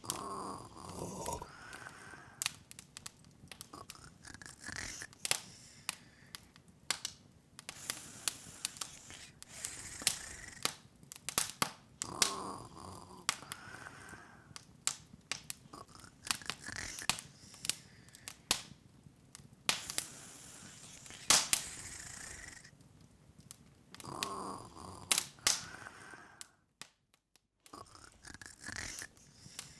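Wood fire in an open fireplace crackling, with frequent irregular sharp pops and snaps. Softer swells recur roughly every twelve seconds, and the sound cuts out briefly near the end.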